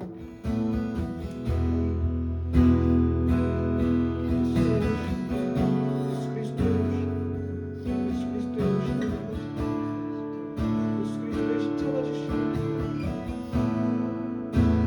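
Slow instrumental music led by a strummed acoustic guitar, its chords changing every couple of seconds over low bass notes.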